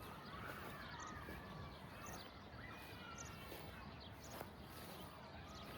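Faint outdoor ambience with a small bird giving short high chirps, about one a second.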